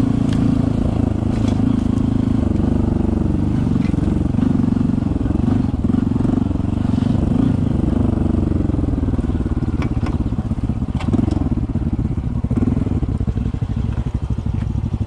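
Honda CT125 motorcycle's single-cylinder four-stroke engine running at low speed on a muddy trail, its note rising and falling with the throttle. A few sharp knocks and clatters from the bike over the rough ground.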